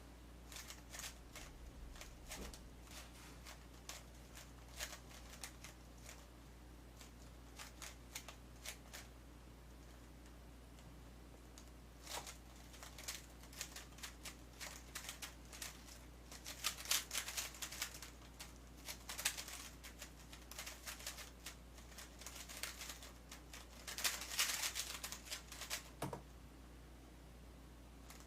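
Plastic clicking and clacking of a 3x3 speedcube being turned by hand: scattered turns at first, then after a short pause about fourteen seconds of fast, dense turning, ending with a single thump.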